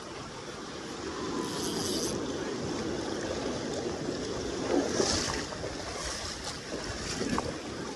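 Steady rush of fast river water, with wind noise on the microphone.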